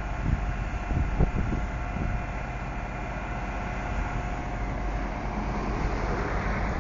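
A heavy diesel engine running steadily, with a few low wind thumps in the first second or so.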